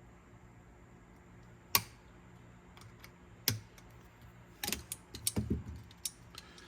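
Sharp clicks and taps of small metal parts and tools while retaining clips are fitted onto the lever shafts of a cassette deck's head-carriage mechanism: one loud click a little under two seconds in, another about halfway, then a quick run of several clicks.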